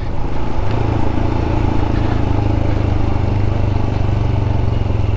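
Royal Enfield 411 cc single-cylinder motorcycle engine running steadily in first gear on a steep descent, heard from the rider's position with wind and road noise.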